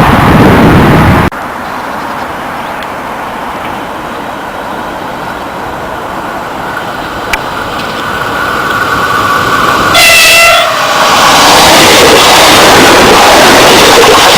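Loud train noise cuts off abruptly about a second in. After a quieter stretch, a train horn sounds once, briefly, about ten seconds in. The loud rush of an approaching and passing train follows.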